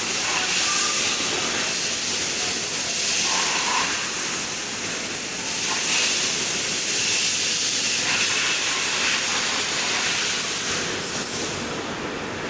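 Semi-automatic polypropylene barrel machine running, with a steady loud hiss that eases off slightly near the end.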